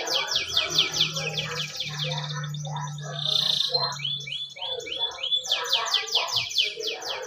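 Domestic canary singing a long song of fast trills and rolls, with a short buzzy note about three seconds in and a run of upward-slurred notes after it.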